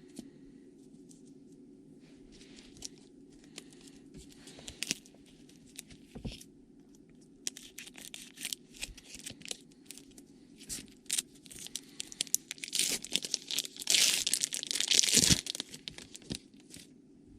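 A trading card pack wrapper being handled and torn open: scattered crinkles that build to a loud stretch of tearing and crinkling late on.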